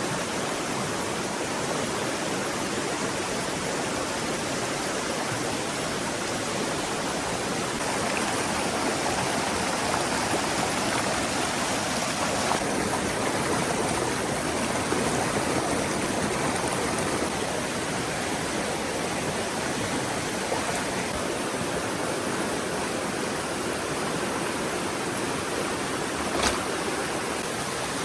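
Forest stream flowing steadily, a rushing, even wash of water that swells slightly partway through. A single sharp click near the end.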